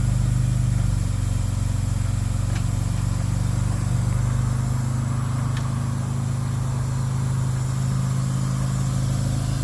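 1959 Jaguar XK150's straight-six engine idling steadily just after a cold start.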